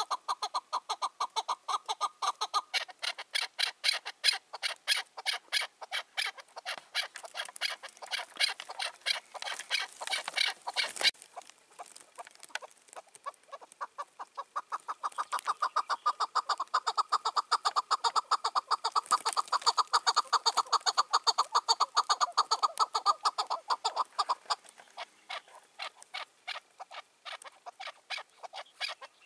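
Chukar partridge calling a long, fast series of clucking 'chuk-chuk' notes, about five a second, in two long bouts; the first breaks off about eleven seconds in, the second is loudest, and it trails off into fewer, fainter notes near the end.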